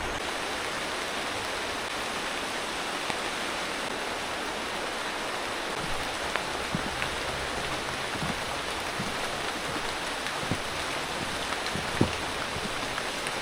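Steady tropical rain falling, with a few louder single drops landing close by in the second half.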